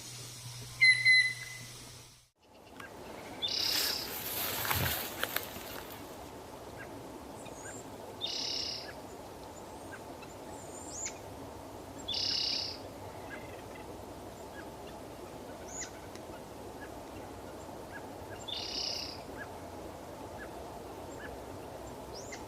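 Bird calls. A short high whistled note comes about a second in. Then, over a steady background hiss, a bird repeats a short high call every few seconds.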